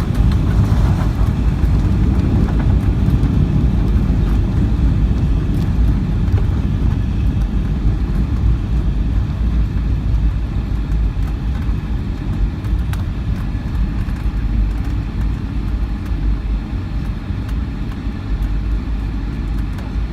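Loud, steady low rumble of a Boeing 757-200 heard from inside the rear passenger cabin: engine and airflow noise, easing gradually over the stretch.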